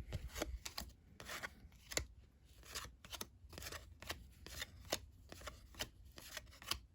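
Cardboard trading cards being flipped one after another off a hand-held stack, each card making a short slap or flick, about three a second at an uneven pace.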